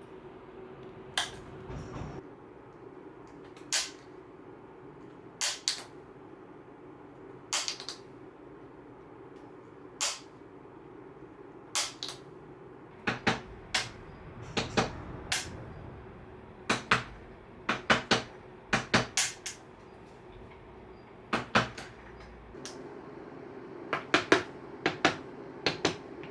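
Hand tools clicking and knocking against a wooden chair frame during upholstery work: irregular sharp taps, some single and some in quick runs of two to four, over a steady low hum.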